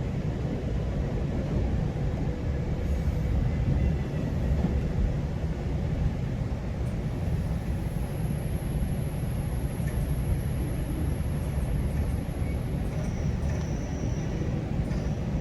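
Steady low rumble of a GO Transit commuter train.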